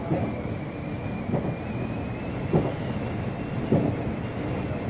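A JR 103 series electric train heard from inside car KuHa 103-170, running steadily with a constant rumble. The wheels knock over rail joints about every 1.2 seconds, five times.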